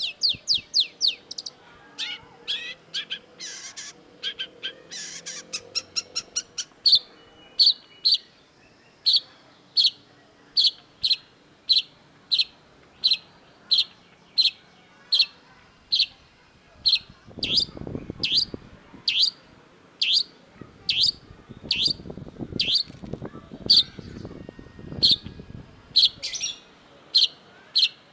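Long-tailed shrike calling: a fast chatter of sharp, high notes for the first several seconds, then a steady series of short, sharp, high calls about one and a half a second.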